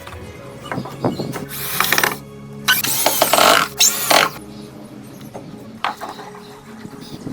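A handheld power tool runs in three short bursts, each a second or less, over soft background music.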